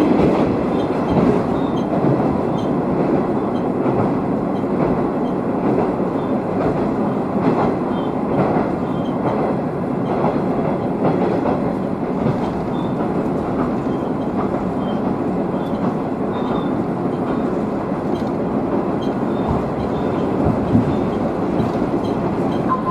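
Running sound of a Nishikigawa Railway diesel railcar heard from inside the cabin: a steady rumble of engine and wheels on rail, with occasional faint clicks.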